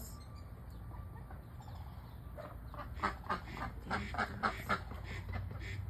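Domestic ducks quacking: after a quieter start, a quick run of short quacks begins about three seconds in.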